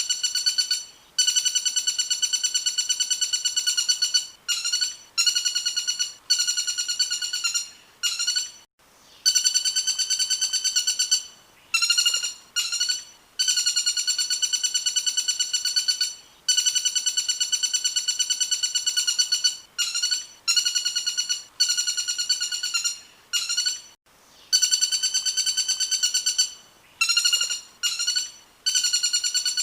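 Recorded bird call used as training song for songbirds: one note repeated rapidly many times a second, in runs of a few seconds with short breaks between them.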